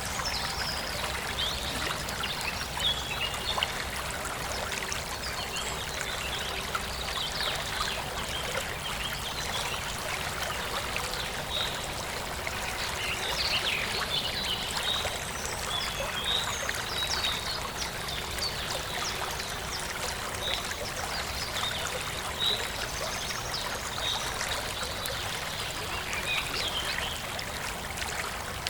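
Forest stream flowing and trickling steadily, with small birds giving short high chirps scattered throughout.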